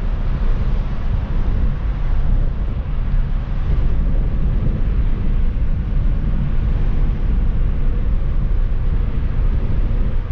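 Car driving: a steady rumble of engine and road noise, heaviest in the low end.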